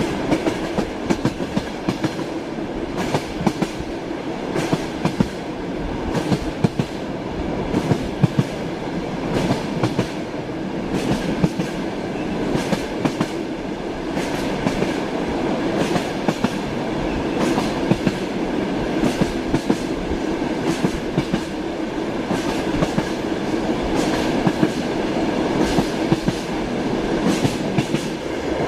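Passenger train wheels clacking over rail joints, heard from inside a compartment. The clacks repeat again and again over a steady rolling rumble.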